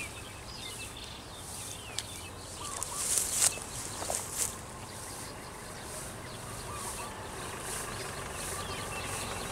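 Small birds chirping in short, gliding calls, with scattered faint high ticks and a steady low hum. A few louder sharp clicks come about three to four and a half seconds in.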